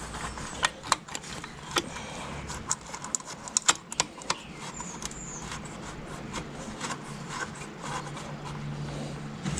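Hand tools and metal parts clinking and clicking while being worked, a quick run of sharp clicks in the first few seconds and then only a few more, over a low steady hum that grows stronger near the end.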